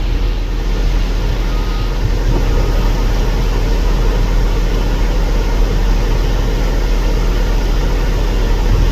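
A garbage truck's CNG engine idling, a steady low drone that does not rise or fall.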